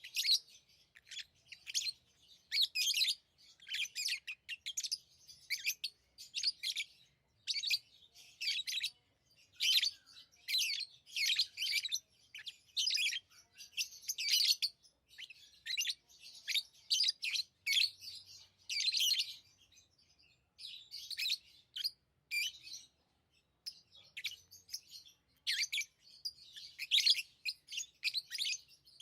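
Pet lovebirds chirping: quick, high-pitched chirps in dense bursts, one after another with only short pauses.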